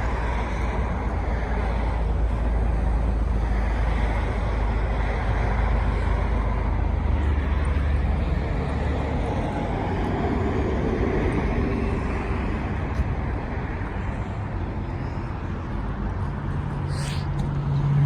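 Car engines running nearby with a steady low rumble. Near the end a closer engine's low hum comes in and grows louder.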